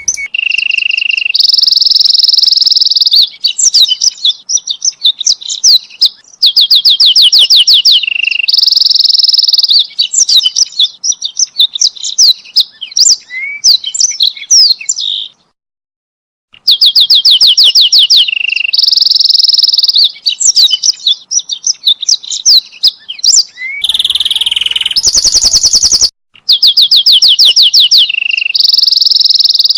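Domestic canary singing loudly and almost without pause: fast trills of rapidly repeated notes alternate with long held rolls and short clicking notes. The song breaks off for about a second near the middle and again briefly later on.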